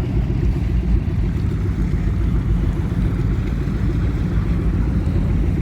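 Deep, steady rumble of high-performance powerboat engines running at idle.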